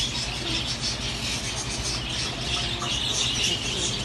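Many small caged birds chirping and twittering together in a dense, continuous chorus.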